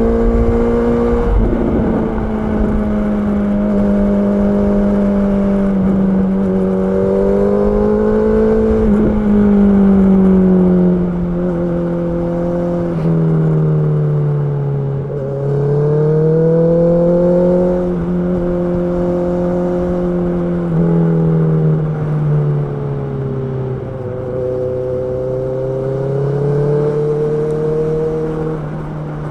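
Honda CB650R inline-four motorcycle engine running under way. Its note rises and falls with the throttle again and again, with several sudden steps in pitch that sound like gear changes.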